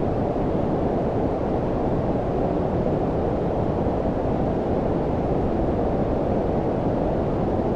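Steady synthetic low-frequency noise, like brown noise: a constant deep rushing hiss with most of its weight below about 1 kHz and little treble, unchanging throughout.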